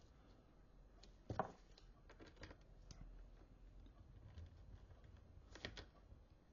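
Near silence broken by a few faint clicks and taps of small metal parts being handled, clutch spring studs and stud nuts: one a little over a second in, a few more around two seconds in, and a quick pair near the end.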